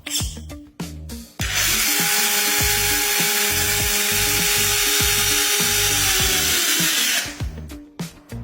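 1/14 scale RC truck two-speed gearbox with a brushed motor and steel gears, run under power. It gives a few short blips, then from about a second and a half in runs with a steady whine for about six seconds before winding down near the end. Background music with a steady beat plays underneath.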